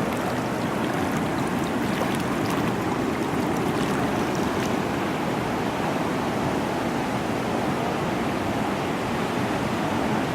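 Steady rush of fast-flowing floodwater, an even, unbroken noise.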